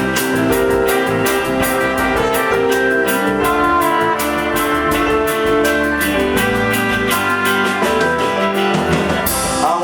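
Rock band playing live: electric guitars and drum kit with steadily struck cymbals, an instrumental passage with no vocals.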